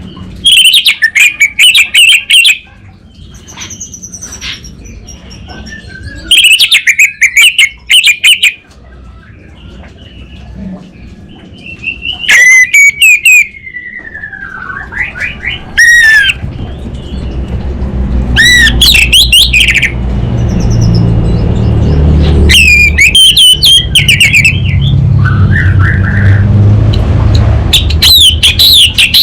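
Orange-headed thrush singing loudly in repeated bursts of fast, twittering phrases, about seven bursts a few seconds apart with softer notes between them. A low rumble runs underneath from about halfway through.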